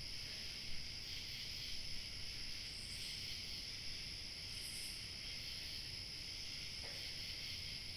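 A steady chorus of crickets chirping, a dense high-pitched trill without a break, over a faint low rumble of light wind.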